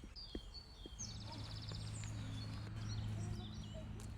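Songbirds chirping in a park, with short repeated high notes and a rapid trill about a second in. A low steady hum from a distant engine sets in about a second in.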